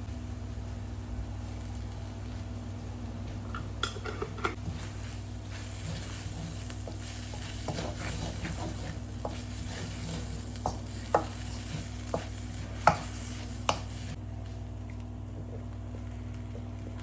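Fried rice sizzling in a pan as it is stirred, with a utensil knocking against the pan several times; the sizzle stops near the end. A steady low hum runs underneath.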